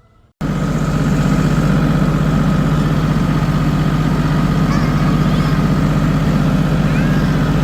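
Tractor engine running steadily at a constant speed, cutting in suddenly about half a second in.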